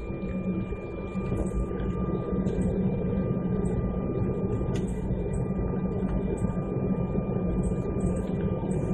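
Jet airliner cabin noise: the engines' steady low rumble with a thin, constant whine above it.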